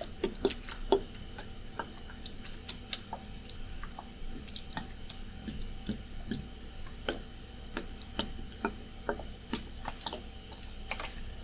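Irregular light clicks and taps from a water bottle being handled and shaken, over the steady hum of an air conditioner.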